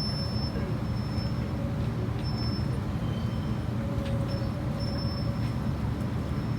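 Steady low engine rumble, even in level, with a faint steady hum above it.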